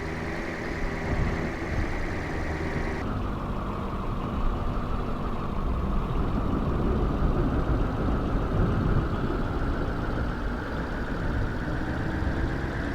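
A motor vehicle running steadily, its engine hum mixed with road or wind noise. The tone drops a step about three seconds in.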